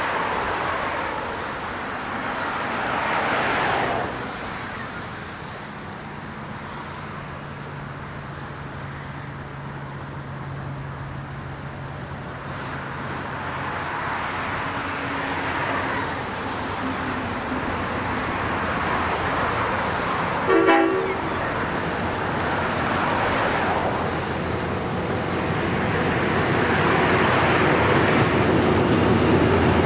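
Traffic noise, cut by one short horn toot about two-thirds of the way through. Near the end the low, steady drone of an approaching diesel locomotive grows louder.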